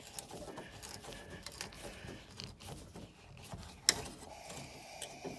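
Small metallic clicks and scrapes of hand tools working at a rusted Phillips-head screw and its clamped nut plate, with one sharper click about four seconds in.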